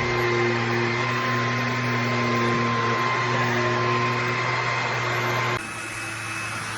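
Vacuum cleaner motor running steadily with a fixed hum and whine. A little over five seconds in it cuts abruptly to another vacuum running, quieter.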